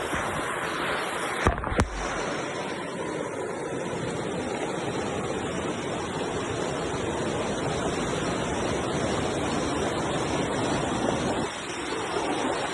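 Mountain river rushing, a steady wash of water noise. Two sharp clicks come close together about a second and a half in.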